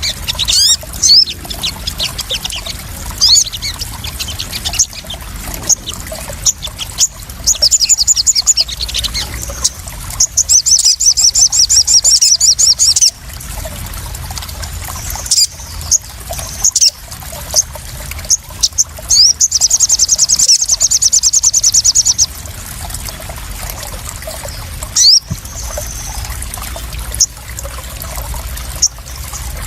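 Crimson sunbird (sogon) calls: sharp high chirps and three fast, high trills of a couple of seconds each, over steadily trickling, splashing water.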